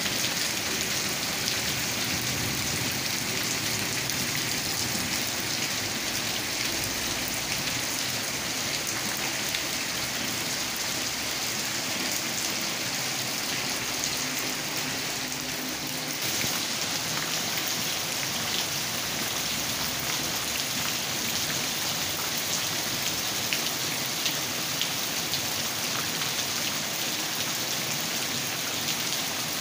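Heavy rain falling steadily onto a flooded concrete yard and its puddles: an even hiss with scattered drop splashes.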